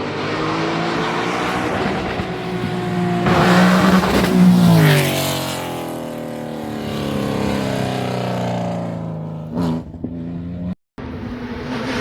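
Rally car engine at high revs passing close, loudest about four seconds in, then dropping in pitch as it moves away. Near the end the sound cuts out for an instant and another engine is heard.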